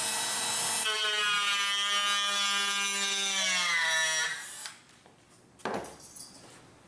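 Dremel rotary tool running with a steady high whine as it shapes the wood of a rifle stock's nose. Its pitch sags slightly as it winds down, and it stops about four and a half seconds in, followed by a single light knock.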